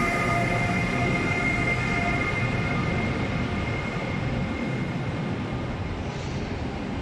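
PKP Intercity Siemens Taurus electric locomotive moving past with a steady high whine from its traction equipment, which fades about two seconds in. After it, the passenger coaches roll by with a continuous rumble that slowly grows quieter.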